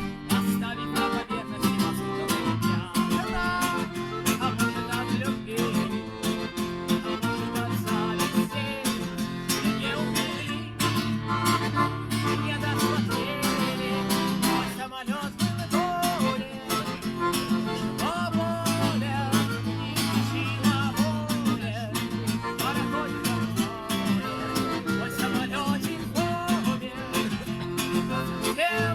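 Live acoustic guitar song: a guitar strummed in a steady, driving rhythm with other pitched parts over it.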